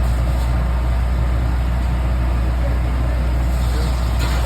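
An engine running steadily at idle, a low, even drone, with a short click near the end.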